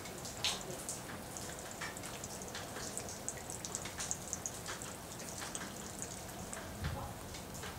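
Rain falling steadily, with many separate drops ticking close by at an irregular pace over a soft hiss.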